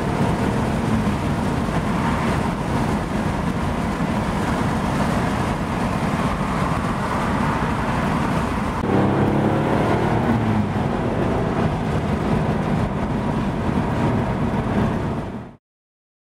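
Porsche 964's 3.6-litre air-cooled flat-six running at highway speed, heard from inside the cabin with steady tyre and wind noise. About nine seconds in the engine gets louder and its note climbs as the car accelerates; the sound cuts off near the end.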